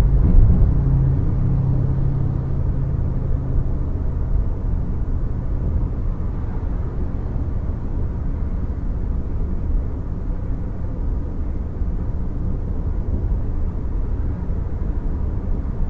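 Steady low rumble of a moving car's road and engine noise, as picked up by a dashcam.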